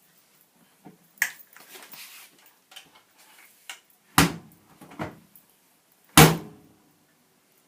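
Hard clunks and knocks from handling a washing machine: one about a second in, two close together around four and five seconds, and the loudest about six seconds in, like a door or drawer being shut.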